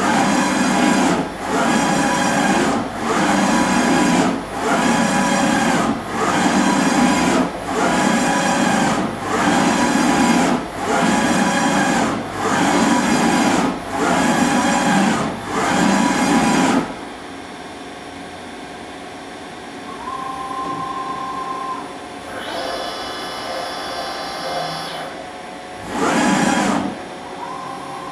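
Brand 850 NE CNC surface grinder at work: the wheel grinds across the workpiece as the table reciprocates, a loud grinding pass about every 1.3 s with a short dip at each reversal. About 17 s in the grinding stops, leaving a quieter machine hum with a few brief whining tones, and one more short grinding pass comes near the end.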